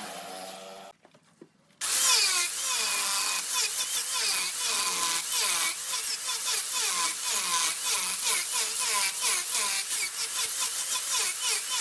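Wood being turned on a lathe: a cutting tool scrapes and chatters against the spinning wood in quick repeated strokes with short falling whines. The sound drops out briefly about a second in, then starts again loud.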